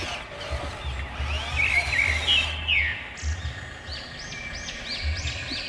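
Birds calling in quick rising-and-falling chirps, with a close run of repeated calls near the end. An intermittent low rumble sits underneath.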